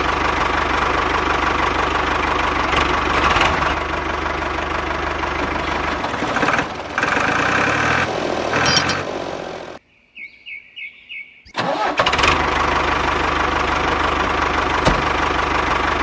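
Steady engine running sound that changes character about six seconds in. It cuts out about ten seconds in for under two seconds, with only a few faint high beeps, then resumes.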